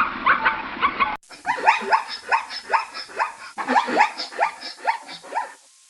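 An animal giving quick yelping calls that slide down in pitch, several a second. An abrupt cut about a second in ends the previous animal sound.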